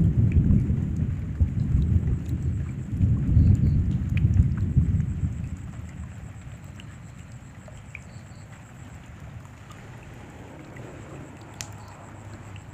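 Rain falling steadily with a heavy roll of thunder rumbling over it for the first five seconds or so, then dying away. Steadier, quieter rain with scattered drips follows.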